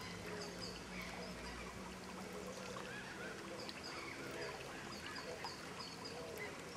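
Faint chorus of bird calls: many short, overlapping chirps and calls repeating throughout.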